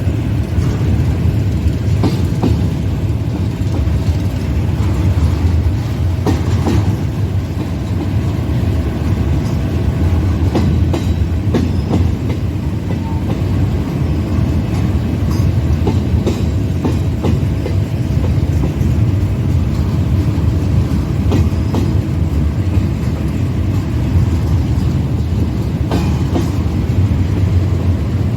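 Freight train cars rolling past: a steady heavy rumble with scattered clicks from the wheels over the rail joints.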